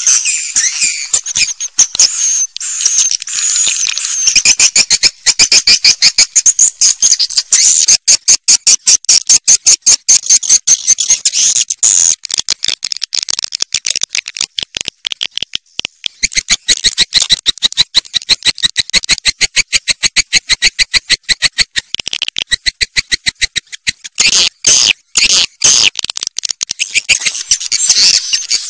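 Swiftlets calling: a fast, continuous, high-pitched chatter of rapid clicking chirps, with a few brief breaks.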